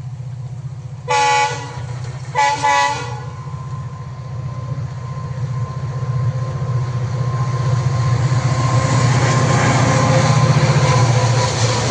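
Indian Railways train horn sounding twice in short blasts, the second broken into two quick parts, over the train's steady low rumble, which grows louder toward the end as the train draws nearer.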